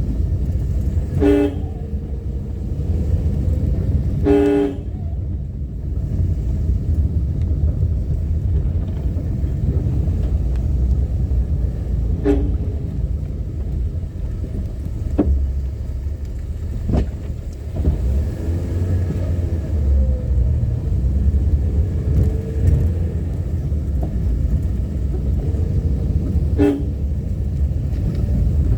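Car driving with a steady low engine and road rumble, and a vehicle horn honking in short blasts four times: about a second in, around four seconds in, around twelve seconds in, and near the end.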